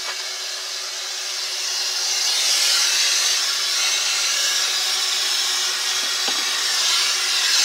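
Shop vac running steadily, a high hiss with a faint steady hum, vacuuming caked dust and lint out of a space heater.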